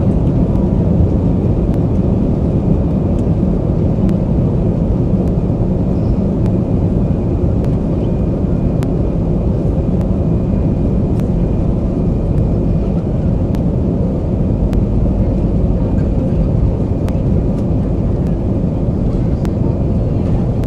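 Airbus A320-200 cabin noise: the engines and airflow make a steady, loud, deep rumble, with a faint thin whine above it.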